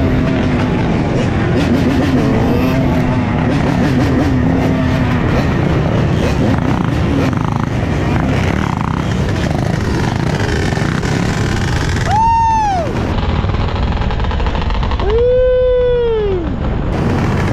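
Many dirt bike engines running together in a loud, steady din. Near the end a nearby bike revs sharply twice, its pitch rising and dropping back each time, the second rev longer.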